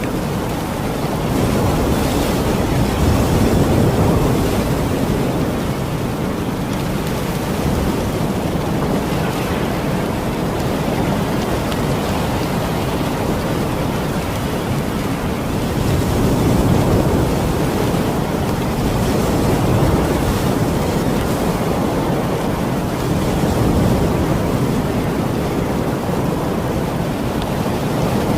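Heavy rain falling: a steady rushing hiss that swells louder a few times, around a quarter of the way in and again in the second half.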